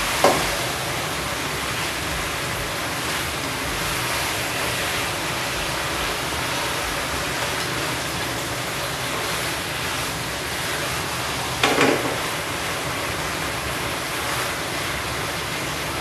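Noodles sizzling steadily in a wok on a gas stove while being stir-fried, with a metal utensil knocking against the pan just after the start and a few times around twelve seconds in.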